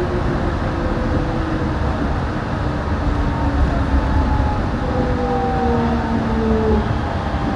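Yurikamome rubber-tyred automated guideway train running: a steady low rumble with several tones that slowly glide down in pitch, the motor whine of the train easing its speed.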